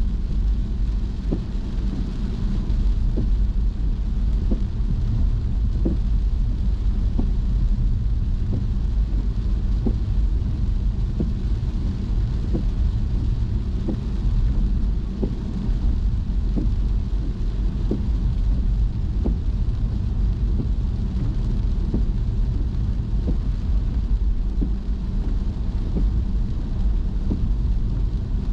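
Car driving on wet roads in the rain: a steady low rumble of road and engine noise with a hiss of rain and tyre spray, and a faint short tick about once a second.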